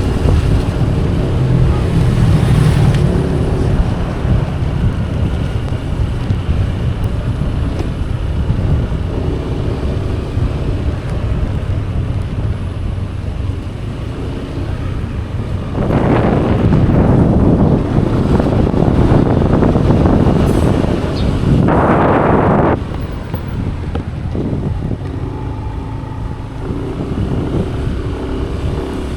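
Motorcycle engine running on a ride, with wind rushing over the microphone. The wind swells louder for a few seconds past the middle and again briefly about three-quarters through.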